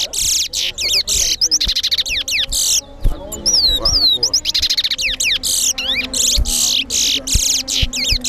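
Towa-towa (chestnut-bellied seed finch) singing without pause: a quick string of rapid trills and warbled phrases, with a few clear down-slurred whistled notes a few seconds in.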